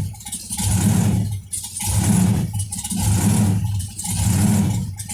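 Supercharged V8 of a '57 Chevy hot rod running with a rhythmic surge, swelling and dropping about once every second or so, four surges in a row. The blower builds pressure and the engine lets it out in step with the firing order: not the driver working the throttle.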